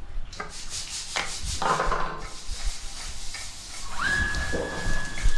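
Rubbing and scrubbing noises in short scrapes, then about four seconds in a small electric motor starts up with a rising whine that settles into a steady high hum.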